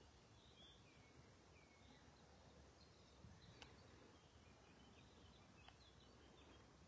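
Near silence: faint outdoor air with scattered faint chirps of small birds and a couple of faint ticks.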